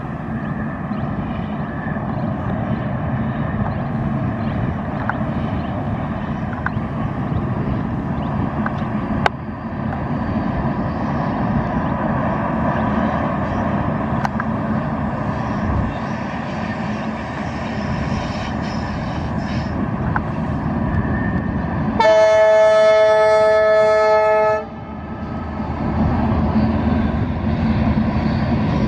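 Diesel locomotive hauling a long passenger train: steady engine and wheel-rolling noise throughout. About three quarters of the way through, the horn sounds in one long blast of about two and a half seconds, the loudest sound here.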